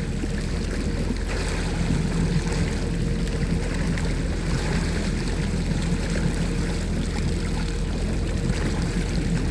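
Boat engine running steadily with a low hum, with wind and water noise over it.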